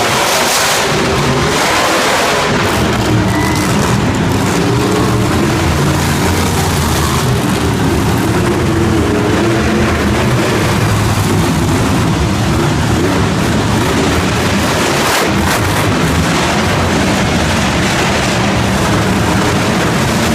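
Monster truck engines running and revving loudly, with pitch rising and falling throughout.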